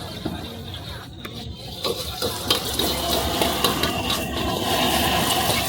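Stir-frying in a wok: food sizzling, getting louder about two seconds in, with several sharp metal clanks from the spatula.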